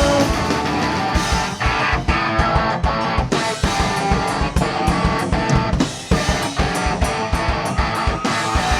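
Live rock band playing an instrumental break: electric guitars and bass over a steady drum-kit beat, with no singing.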